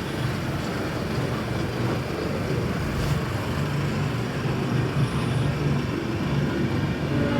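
Steady rumble and hiss of a train rolling along a station platform, with a brief faint high squeal about five seconds in.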